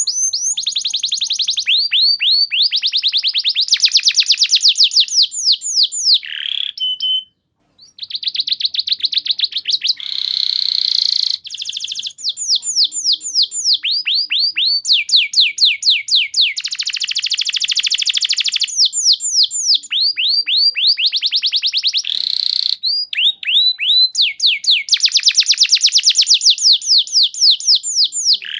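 Domestic canary in full song: long, fast trills of rapidly repeated notes, each run sweeping down in pitch and switching to a new phrase every second or two, with one short pause about seven seconds in.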